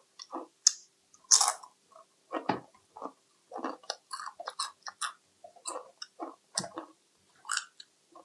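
Close-up chewing and biting of baby back ribs: a run of short, irregular mouth sounds, loudest about one and a half seconds in.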